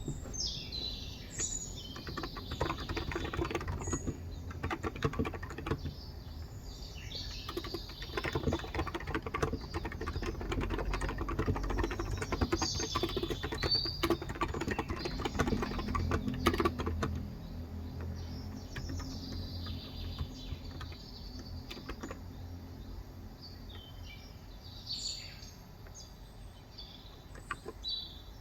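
Typing on a Cox Endeavor electrostatic capacitive keyboard with light 35 g switches: a fast run of soft key strokes that thins out about two-thirds of the way in. Birds chirp at intervals behind it.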